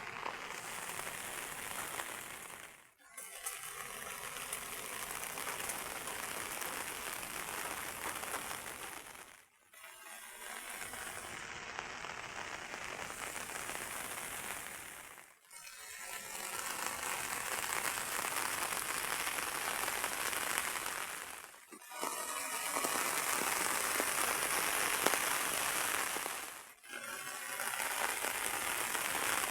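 Heavy rain falling in a steady hiss, dropping away briefly about every five to six seconds before returning.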